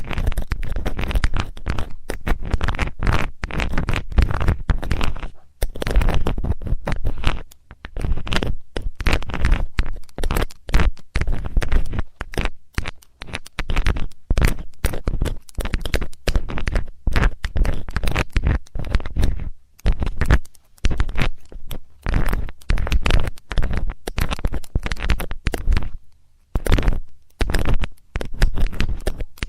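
Metallic ear-cleaning tool scraping and rubbing right at the microphone: a dense run of quick scratchy strokes with a deep rumble under them, broken by short pauses, one longer pause near the end.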